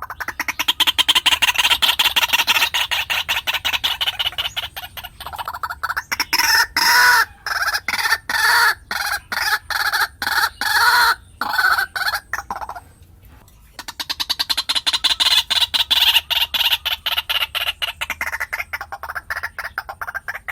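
White-breasted waterhen calling: long runs of rapid, repeated croaking notes in three bouts, the middle one loudest, with a short break about 13 seconds in.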